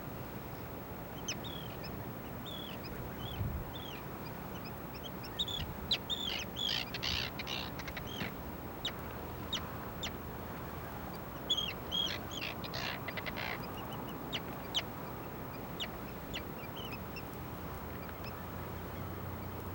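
Birds calling: a string of short, high calls, thickest in two busy bursts about six and twelve seconds in, over a steady outdoor hiss.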